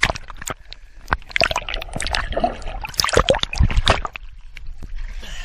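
Water splashing and sloshing in a swimming pool close to the microphone, a quick irregular run of splashes and drips.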